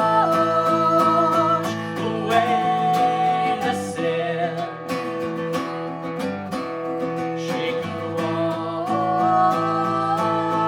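Live band music in an instrumental passage: strummed acoustic guitar keeping a steady beat under a lead line of long held notes that step up and down in pitch.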